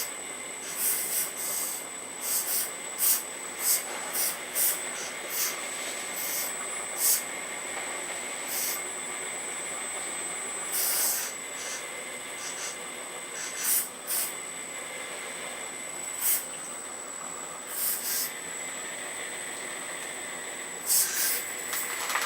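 Earth Digger 4200XL RC hydraulic excavator running, its hydraulic pump giving a steady high-pitched whine, broken every second or so by short hissing bursts.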